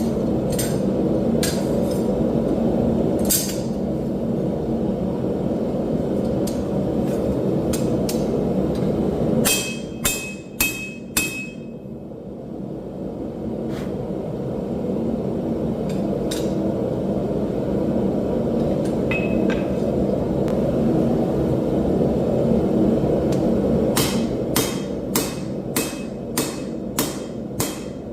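Hammer blows on steel at an anvil during forging: a quick cluster of about five ringing strikes just before the middle, then a steady run at about two blows a second near the end, over a steady low rushing noise throughout.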